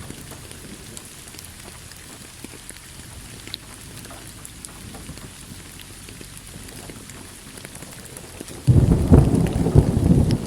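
Steady rain falling, with drops ticking. Near the end a loud clap of thunder breaks in suddenly and rolls on as a rumble.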